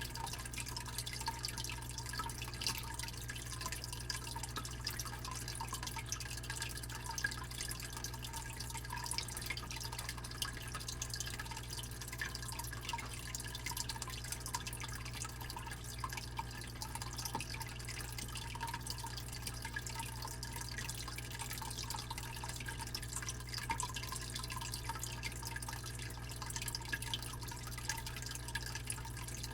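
Fish tank pump with a steady low hum, and water trickling and dripping in the tank in many small quick splashes.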